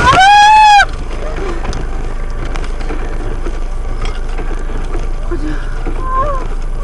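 A car horn sounds loudly for just under a second, one steady note, followed by a steady rumble of a vehicle driving.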